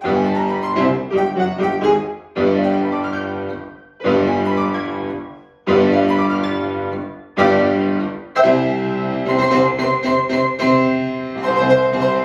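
Piano played four hands: a run of loud chords, each struck and left to ring and die away, one every one and a half to two seconds, then fast continuous playing from about eight seconds in.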